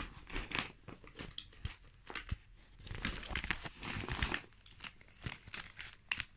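Pens being gathered and dropped into a pencil case: irregular light clicks and clatters mixed with rustling as the case is handled.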